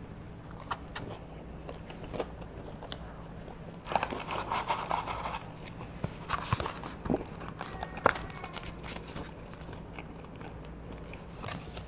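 Close-miked chewing of French fries, with wet mouth clicks and small crunches, and the cardboard fries carton being picked up and handled with a few rustles and taps.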